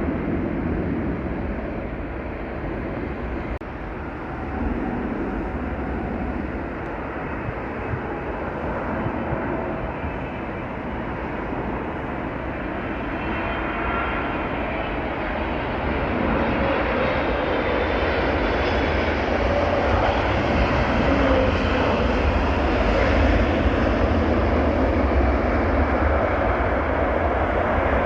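Jet airliner on approach to land, its engine noise a steady rush that grows louder over the second half, with a faint whine on top.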